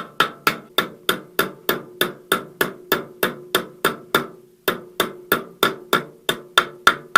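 Rapid, even hammer taps, about three a second with a short pause partway through, each with a brief metallic ring, driving the front bearing of a VAZ 2108–2115 gearbox input shaft down into its seat in the housing.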